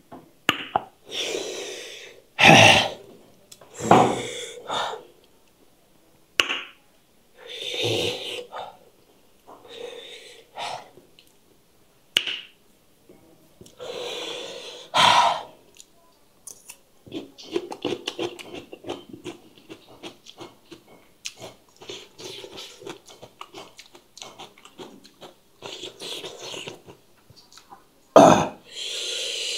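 Close-miked heavy breaths and gasps from a man eating, then about halfway through a long run of crunchy chewing on raw cucumber.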